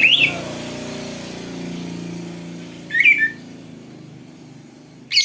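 Oriental magpie-robin (kacer) singing loud clear whistled phrases: one at the start, a short one about three seconds in, and a fast run of high notes beginning near the end. Under the first three seconds runs a low, steady droning hum.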